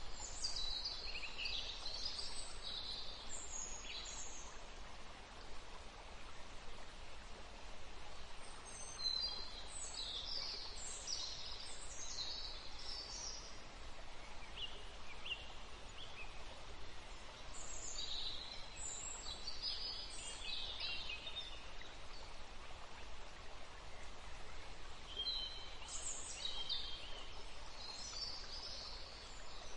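Birds chirping in short clusters of high calls that come back about every eight or nine seconds, over a steady background hiss.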